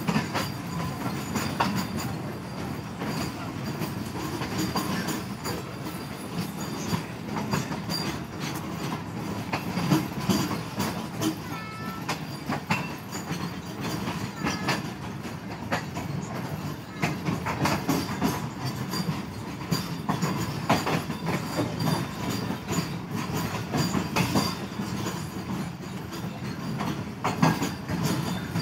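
Train running along the track: a steady rumble with wheels clacking over rail joints, and a short wheel squeal a little before halfway.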